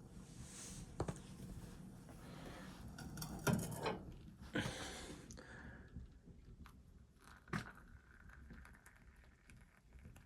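Handling noises in a small room: rustling and scraping, louder for a couple of seconds near the middle, with scattered light clicks and a sharper knock later on.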